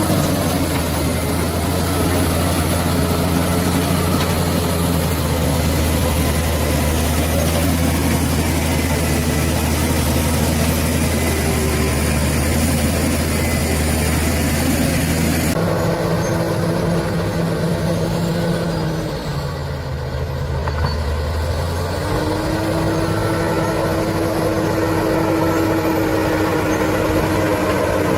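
Bulldozer's diesel engine running with a steady heavy drone. About two-thirds of the way through it eases off briefly, then comes back up.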